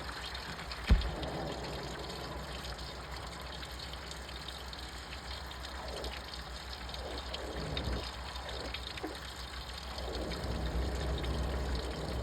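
Front-loading washing machine mid-wash, water sloshing in the turning drum in repeated swishes, with a single knock about a second in.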